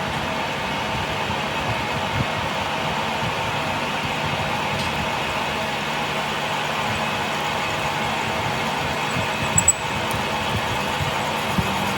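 A machine motor running steadily with a constant hum. Two brief sharp clicks come close together about ten seconds in.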